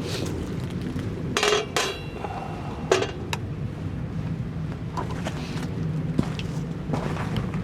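Metal camp cookware clinking a few times, two pairs of sharp clinks with a brief ring, over a steady low rumble.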